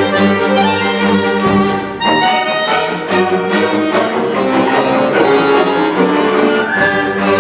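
Chamber orchestra playing, with bowed strings holding sustained notes. A quick run of high notes comes about two seconds in.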